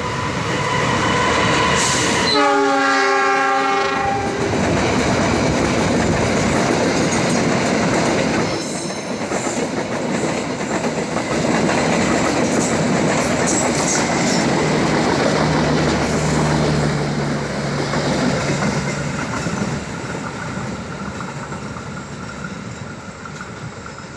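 Diesel locomotive sounding its horn once, a chord held for about two seconds, as it comes out of a tunnel. Its passenger coaches then roll past with steady wheel clatter on the rails, fading near the end as the train moves away.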